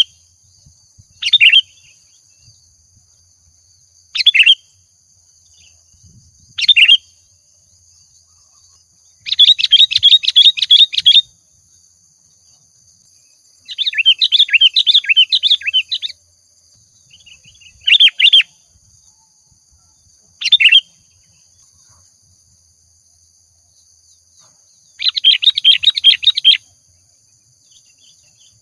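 Sooty-headed bulbul singing: short, clear call notes about every two to three seconds, broken by three longer bursts of rapid, bubbling song lasting about two seconds each.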